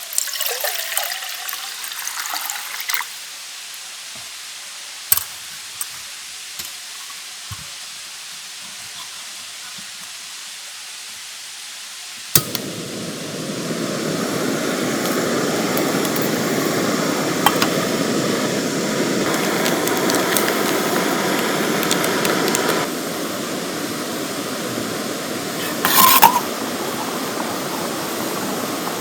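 Small metal clinks and handling sounds, then a sharp click about twelve seconds in as a portable gas stove is lit, followed by the burner's steady rushing hiss.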